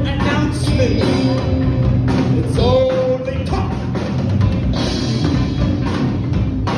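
A rock band playing, with a drum kit. About two and a half seconds in, a pitched instrument slides up and holds a note.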